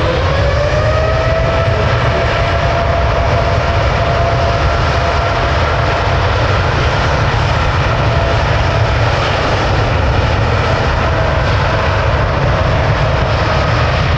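A jet airliner's engines spooling up. Their whine rises over the first couple of seconds and then holds a steady pitch above a loud, continuous rush of engine noise.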